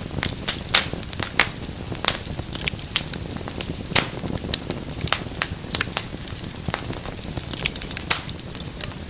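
Wood fire burning in a fireplace: irregular sharp crackles and pops, several a second, over a steady low rumble of flame.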